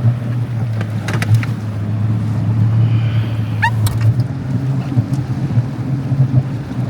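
A motor running steadily with a low, even drone, with a few faint clicks about a second in and a short high chirp near the middle.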